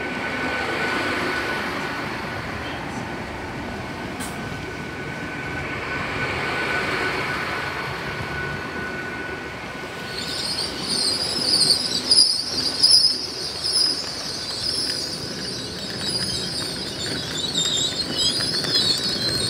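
Great Western Railway Intercity Express Train moving at the platform: a steady running rumble with a thin constant whine, then from about halfway a loud, wavering high-pitched squeal from the train that runs to the end.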